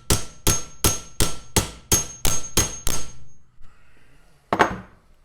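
Hammer blows driving a steel pin down through a door hinge and its new bushings, about three a second with a metallic ring, stopping about three seconds in, then one last blow near the end as the pin seats.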